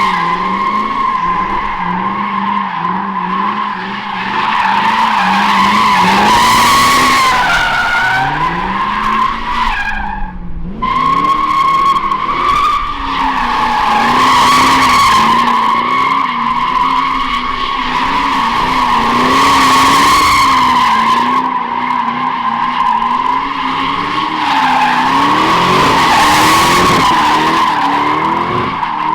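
Pontiac GTO's V8 held high in the revs while the rear tyres squeal steadily through continuous donuts. The engine note rises and falls, and about ten seconds in the squeal breaks off briefly before it picks up again.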